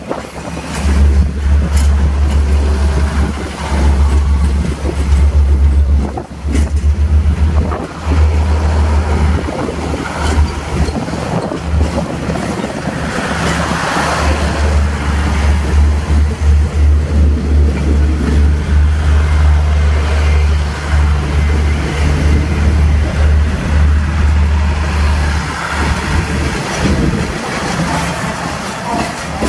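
Passenger train coaches rolling slowly past at close range, steel wheels running on the rails, with heavy wind buffeting on the microphone.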